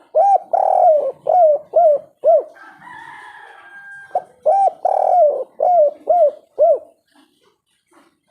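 Spotted dove cooing: two song phrases of about six or seven hooting coos each, a longer coo early in each phrase followed by short 'kuk' notes, the 'kuk 3' song type. A fainter, rougher sound fills the gap between the two phrases.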